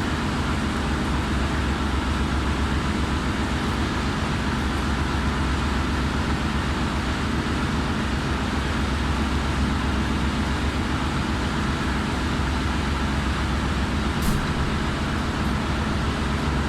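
Steady drone of running engine-room machinery, with a constant low hum and a level noise up into the mid range; a single short click about fourteen seconds in.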